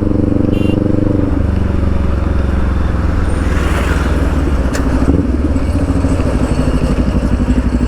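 Kawasaki Ninja 400's 399cc parallel-twin engine running through a loud aftermarket Akrapovic exhaust while riding at fairly steady revs; the engine note changes about a second in.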